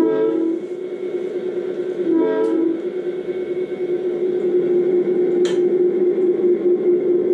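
Recorded diesel locomotive sound played back over a speaker: two short horn blasts about two seconds apart, then a steady running hum as the train pulls out.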